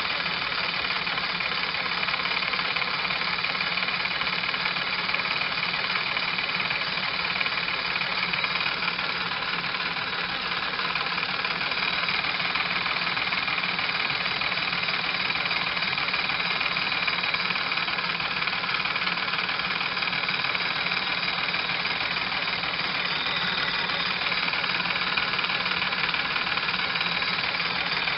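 Small homemade flash-steam engine running steadily with its directly coupled feed pump, an even mechanical running sound with a few steady high tones.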